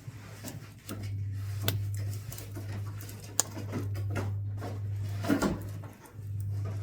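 Pine scrap wood crackling and popping as it burns in a wood-burning stove, with sharp pops every second or so. Under it runs a steady low hum that stops briefly about six seconds in.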